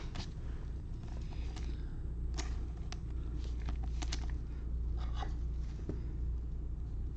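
Trading cards being handled and flipped through: a scattering of light clicks and rustles over a steady low hum.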